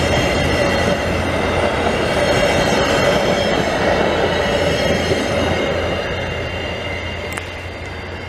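Via Rail passenger train cars rolling past on the rails, a dense rumble with steady high-pitched ringing tones above it. The sound fades from about two-thirds of the way through as the last car passes and moves away.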